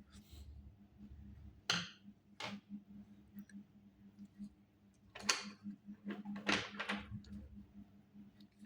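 A few short, scratchy strokes of a drawing or colouring tool on paper, in separate bursts about two seconds in and again around five to seven seconds in.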